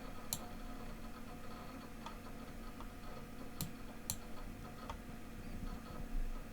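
A few sharp, irregularly spaced clicks as moves are played in an online blitz chess game, over a low steady hum.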